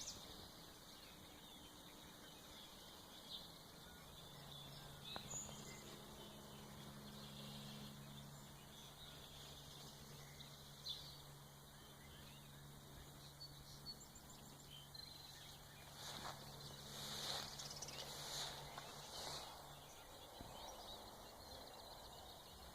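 Faint early-morning birdsong: scattered distant chirps and calls, with a few louder calls about three-quarters of the way through. A low steady hum runs under most of it.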